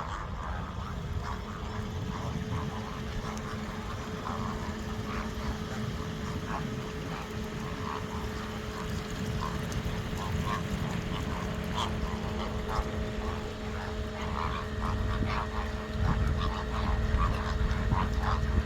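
Many short bird calls scattered throughout, over a steady low rumble with an even mechanical hum, which gets louder near the end.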